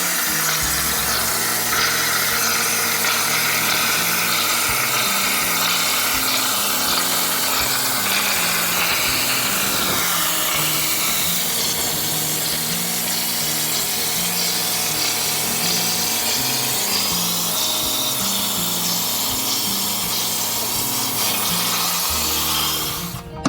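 A power tool cutting aluminum sheet, a steady high-pitched noise whose pitch sags and recovers, over background music with a stepping bassline. The tool noise cuts off just before the end.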